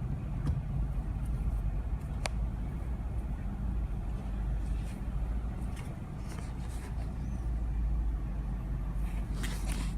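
A car running, a steady low rumble heard from inside the cabin, with a few faint clicks.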